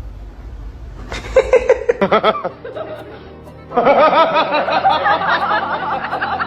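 Bursts of laughter with music: a short run of quick laughing pulses, then from just over halfway a louder, sustained stretch of wavering, pitch-bending sound.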